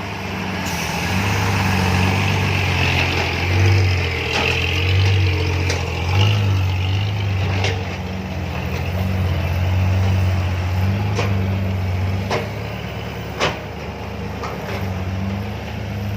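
Loaded six-wheel dump truck's diesel engine labouring hard as the truck climbs a sticky clay ramp, its drone swelling and easing. Several sharp knocks sound through the climb.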